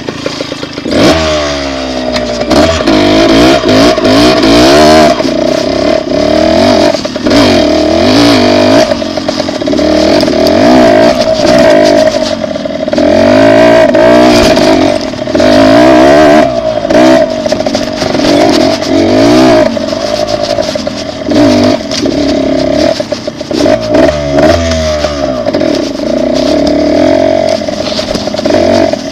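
Dirt bike engine revving up and dropping back again and again as it is ridden, its pitch rising and falling over and over; loud.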